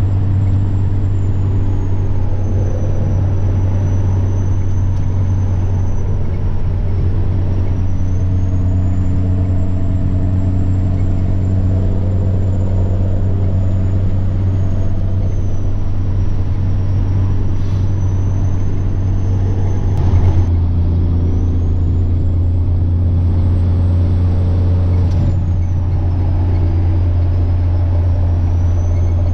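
A semi truck's diesel engine running under way with a steady low drone, its turbocharger whining high above it and drifting up and down in pitch with load. About two-thirds of the way through there is a sharp click, the whine cuts out, and then it climbs back.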